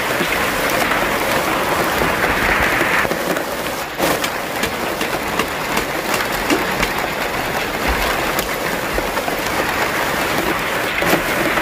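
Heavy rain falling steadily: a dense hiss with countless small drop clicks.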